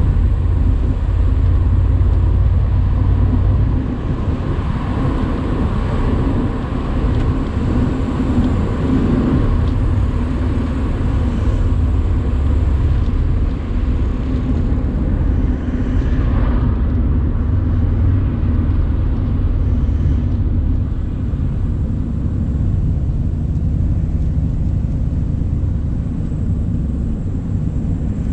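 Mercedes-AMG C63 cabriolet's twin-turbo V8 running steadily while cruising, with tyre and wind noise from the open top.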